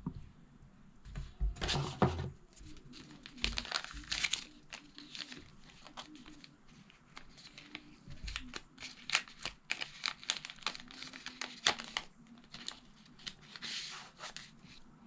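Packaging being handled: crinkling and tearing of wrapping, with many irregular small clicks and taps.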